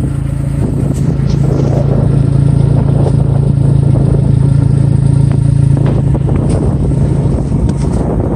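Vanderhall Laguna three-wheeler's engine idling, a steady low hum from its side-exit exhaust, a little louder for a few seconds in the middle.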